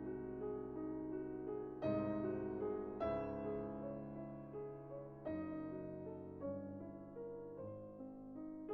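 Slow, gentle solo piano background music, chords struck about once a second or two and left to ring and fade.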